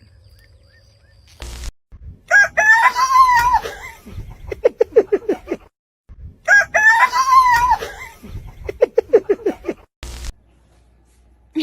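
Rooster crowing twice, each crow a long call followed by a quick run of short pulsed notes; the two crows are nearly identical.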